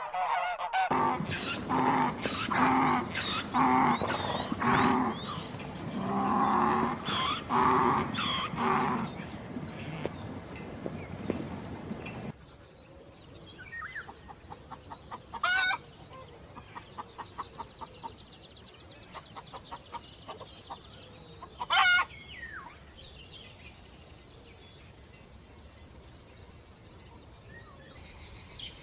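Farm animals calling. A loud run of short calls repeats about once a second for the first twelve seconds. After a cut the scene is quieter, with faint ticking and two brief rising calls a few seconds apart.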